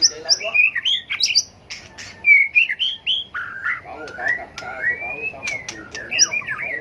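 White-rumped shama singing a rapid, varied song of whistled glides and trills broken by sharp clicks: the bird's contest song.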